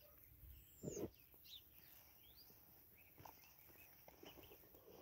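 Near silence outdoors with a few faint, scattered bird chirps, short and sliding in pitch, and a single soft thump about a second in.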